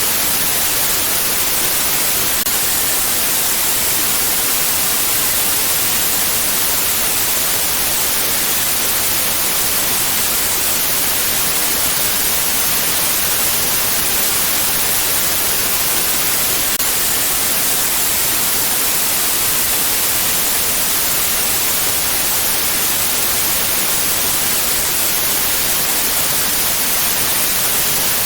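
Steady white noise: an even, constant hiss with no change or break, strongest in the highest frequencies.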